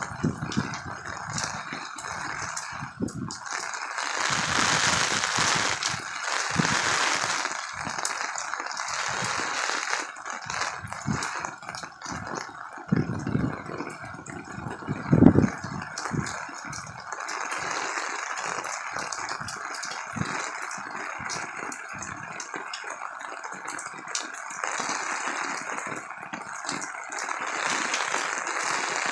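Heavy torrential rain falling steadily, a dense, even patter with no let-up. A few low thumps break through, the loudest about fifteen seconds in.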